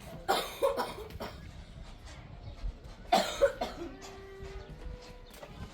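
A person coughing in two short bouts: one just after the start and another about three seconds in.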